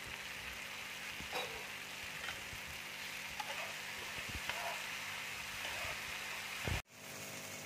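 Spiced masala paste frying in oil in a pan, a steady sizzle, with a few light scrapes of a metal spatula stirring it. The sound drops out abruptly for a moment near the end.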